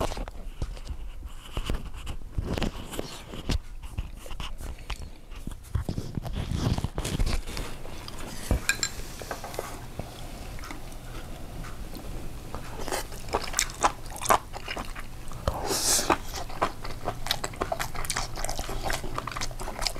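Close-miked eating sounds: chewing and biting food, with many short, sharp clicks scattered throughout.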